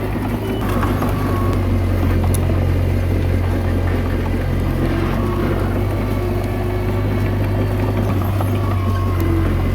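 Komatsu D21A bulldozer's diesel engine running steadily at a constant pitch.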